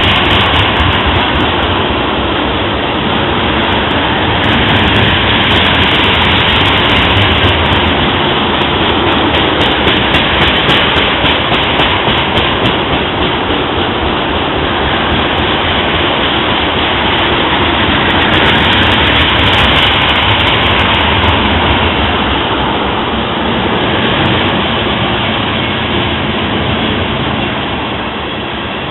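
Freight train cars rolling past on the CSX River Line, a loud, continuous rumble and rattle of wheels on rail that eases slightly near the end.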